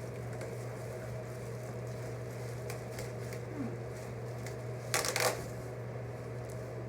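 Plant packaging being handled, with light rustling and scattered small clicks and two louder crinkles about five seconds in, over a steady low hum.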